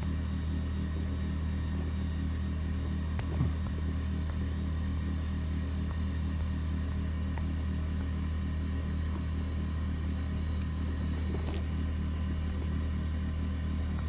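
A motor running steadily with a low, even drone, with a sharp metallic click about three seconds in and another near the end.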